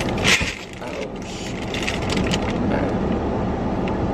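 Steady low rumble of a car idling, heard from inside the cabin, with brief rustling handling noises about a third of a second in and again between one and two and a half seconds in.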